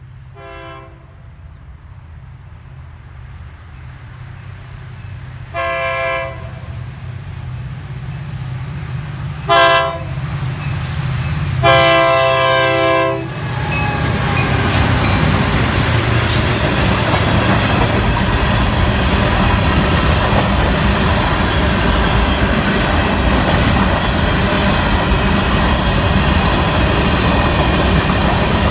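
Horn of Florida East Coast GP40 diesel locomotives sounding four blasts, the third short and the last longest: the grade-crossing warning. About 14 seconds in, the locomotives pass with a loud engine drone, and then the freight cars roll by with their wheels clacking over the rail joints.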